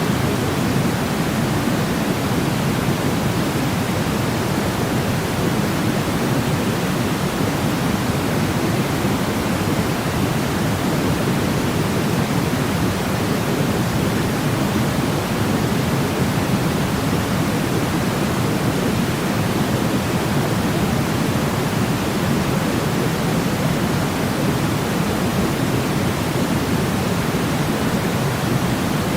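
Steady, deep-toned static noise (pink-type noise, heavier in the low end than white noise), unbroken and even in level.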